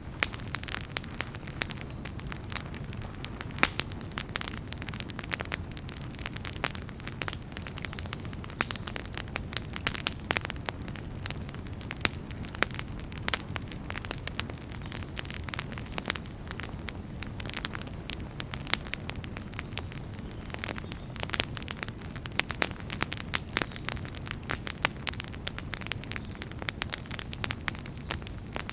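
Wood fire burning in a fireplace: a steady low rumble of flame with dense, irregular crackles and pops throughout.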